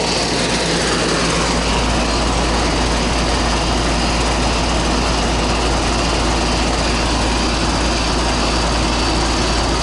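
Goodman R-22 air conditioner's outdoor condensing unit running steadily, its compressor and condenser fan making an even drone. The system is running normally and cooling again after a dirty filter had frozen the evaporator.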